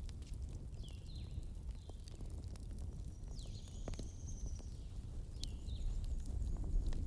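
Wood fire crackling, with scattered sharp pops over a low steady rumble. Through it a bird chirps several times in short high falling notes, with one longer call about halfway through.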